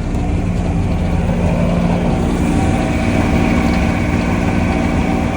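The motor of a box truck's reefer (refrigeration) unit running steadily just after being started, a constant machine drone with a steady hum.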